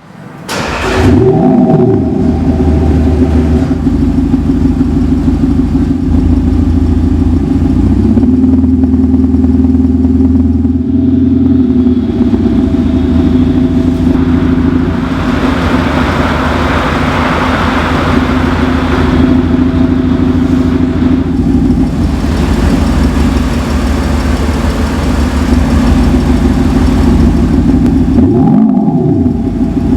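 Audi A6 4G car engine and exhaust sound, shaped by an active sound exhaust module, running at a steady idle. The revs are blipped up and back down briefly about a second and a half in and again near the end.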